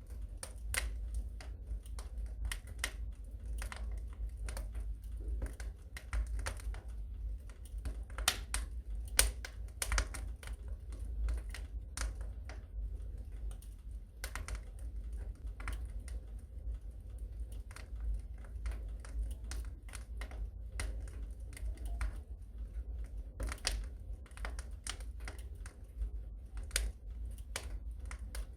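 Wood fire crackling in a fireplace: irregular sharp crackles and pops, some louder than others, over a steady low rumble.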